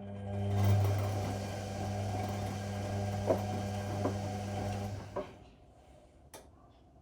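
Whirlpool Indiana 1400 washing machine's motor turning the drum during the wash, a steady hum with a few light knocks from the tumbling laundry, stopping about five seconds in. A single click follows about a second later.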